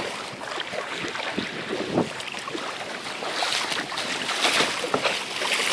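Kayak paddle dipping and splashing in the water in short irregular strokes, with wind buffeting the microphone.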